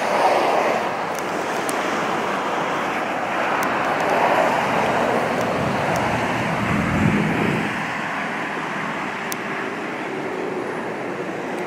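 Steady traffic noise from a nearby road, with passing vehicles swelling about a second in, around four seconds and around seven seconds.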